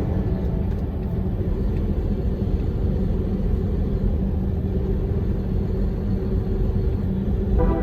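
Steady low rumble of a large truck driving, engine and road noise. Music comes in near the end.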